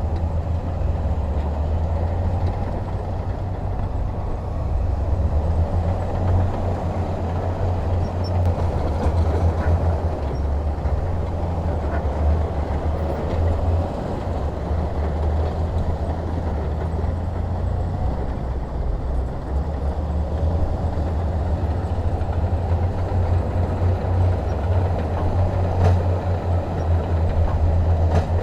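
Heavy diesel machinery running: a steady deep engine rumble with a rough mechanical noise over it.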